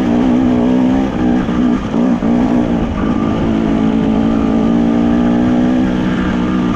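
Enduro motorcycle engine running under steady throttle, with low wind rumble. The engine note wavers and dips about a second in, then picks back up and holds a steady pitch.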